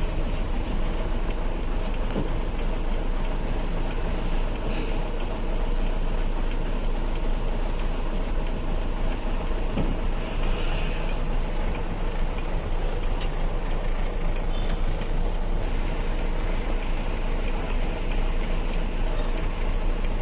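Truck on the move: steady engine and road noise with a strong low rumble. A run of regular light ticks comes in over the second half.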